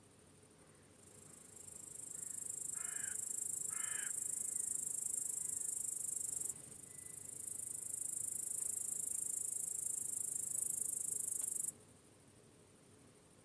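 A high-pitched chorus of crickets chirping. It swells in, stops abruptly about halfway through, swells back, and stops abruptly again near the end. Two short bird calls come about three and four seconds in.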